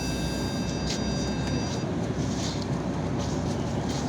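Yutong ZK6128HG city bus heard from inside the cabin while driving: a steady low engine and road rumble with short rattles. A thin high whine of several steady tones stops about two seconds in.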